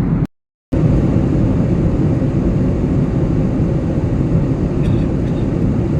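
Steady noise of an airliner in flight heard from inside the cabin, a constant rush of engine and airflow noise, heaviest in the low end. It cuts to silence for a split second about half a second in, then carries on unchanged.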